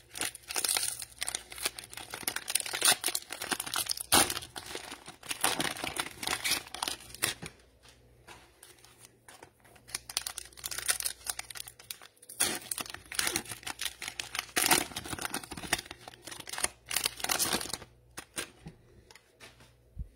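Cellophane wrappers of NBA Optic trading-card cello packs crinkling and tearing as the packs are opened, in bursts with short pauses.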